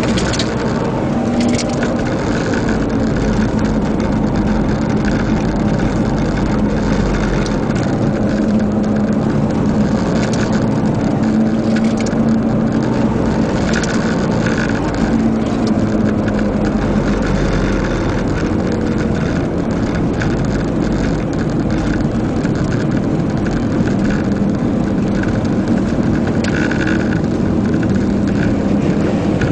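Car engine running hard at racing speed, heard from inside the cabin along with road and wind noise, its tone holding steady with small rises and dips.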